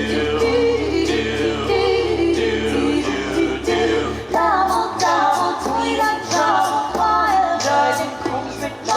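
Small choir singing a cappella: a low held bass part under several voices moving in harmony, kept in time by a regular beat of sharp clicks, about two a second.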